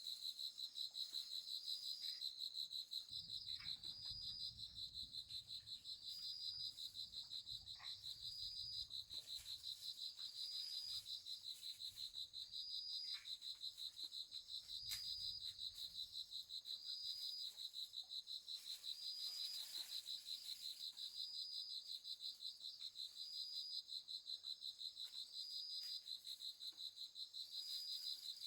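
Steady, high-pitched, rapidly pulsing trill of crickets, with a shorter, higher call repeating about every second and a half over it and a few faint clicks.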